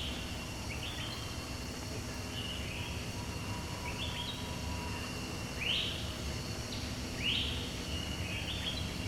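Short high chirping calls, each sweeping up and then dropping away, repeated about once a second over a steady low hum.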